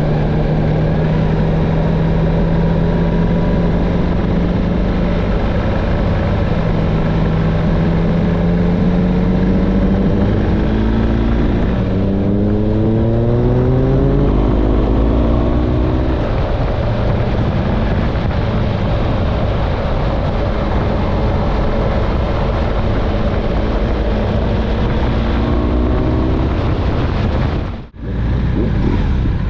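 A motorcycle engine running under way, over a steady rush of wind noise. Partway through the revs climb in steps as it accelerates, and near the end the sound cuts out suddenly for a moment.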